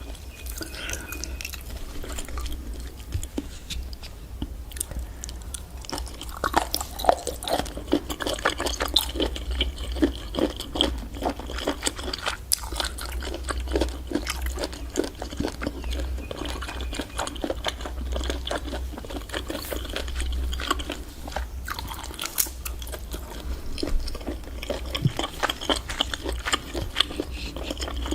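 Close-up chewing and biting of giant octopus: irregular wet, crackly mouth sounds over a steady low hum.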